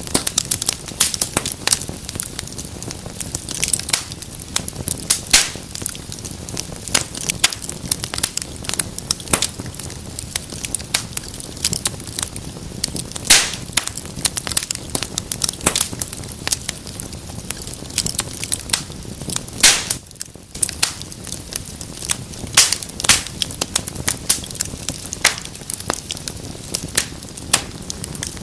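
Fire burning in a fireplace, crackling with irregular sharp snaps and pops over a steady low rush of flames; a few pops stand out louder, one about halfway through.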